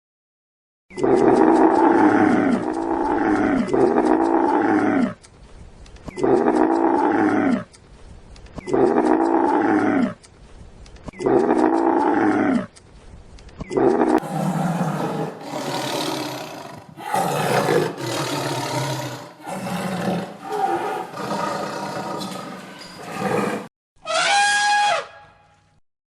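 Wild animal calls: five long, pitched calls of about two seconds each with short pauses between them, followed by a run of shorter, choppier calls. Near the end comes one brief call that rises and falls in pitch.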